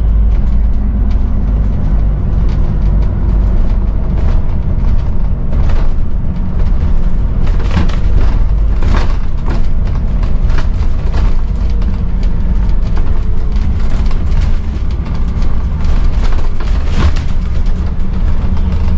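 Scania N280UD bus's five-cylinder diesel engine running steadily under way, heard from inside the bus, with frequent short rattles and knocks from the body.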